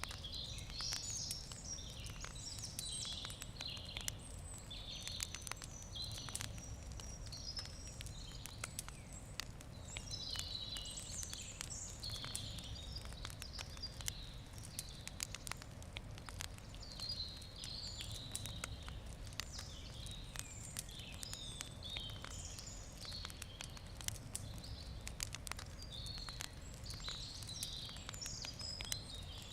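Wood campfire crackling, with frequent sharp pops and snaps, while birds sing and chirp throughout.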